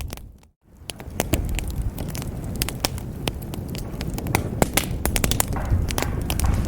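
Wood fire crackling in a fireplace: frequent sharp pops and snaps over a low, steady rumble of the flames. About half a second in, the sound fades out to a moment of silence and fades back up.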